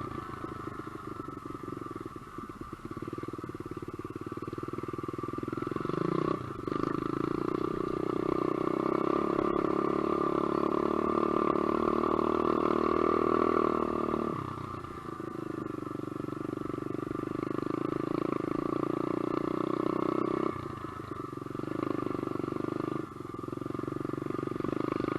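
SSR125 dirt bike's single-cylinder four-stroke engine running while riding. The revs rise about six seconds in and hold, drop off about fourteen seconds in, rise again, and drop once more about twenty seconds in, with a short blip of throttle near the end.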